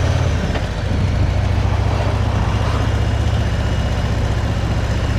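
Motorcycle engine running at steady low revs, a deep even drone with a slight dip just under a second in.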